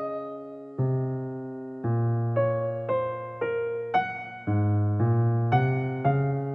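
Background music: slow, gentle piano, single notes and chords struck and left to fade, over low bass notes.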